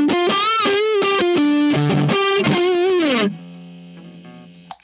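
Les Paul electric guitar on its neck humbucker, played through a Wyong Rd Electronics Keris boost/overdrive pedal turned up high into a clean amp channel. It plays a lead phrase with string bends and vibrato, then ends on a held note that rings on and fades.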